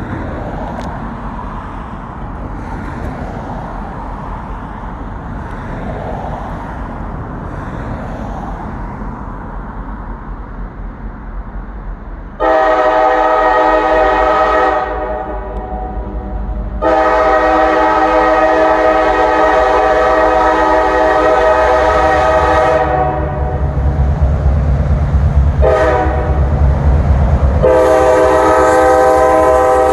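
Diesel locomotive air horn on an EMD GP38-2 sounding the grade-crossing signal: long, long, short, long, with the last blast still sounding at the end. Before the horn, and under it, the locomotive's engine rumbles as it approaches, louder during the last blasts.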